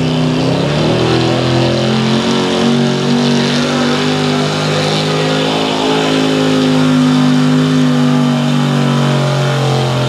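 Factory stock gas pickup truck's engine held at full throttle while pulling the sled. The revs climb over about the first second, hold high and fairly steady, then start to fall near the end.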